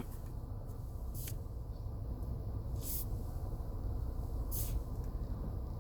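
Low steady rumble with three short, faint hisses, about a second and a half apart.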